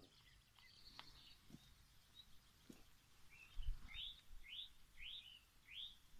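Faint birdsong: a small bird gives a short run of quick up-slurred chirps, about two a second, starting about three and a half seconds in. A low thump marks the start of the run.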